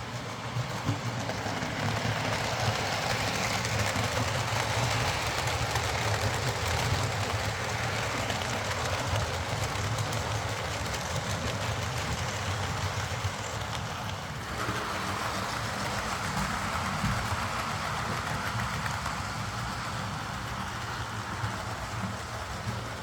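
Hornby OO gauge Class A4 model locomotive running on the track: its tender-mounted Ringfield motor hums steadily, with the rattle of wheels on rail. The sound changes in character about fourteen seconds in.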